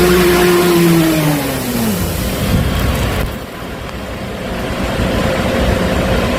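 A high-pressure drain jetter running with a steady drone. About a second and a half in, the drone drops in pitch and dies away, leaving a rushing hiss. The sound dips, then builds back up to a steady level.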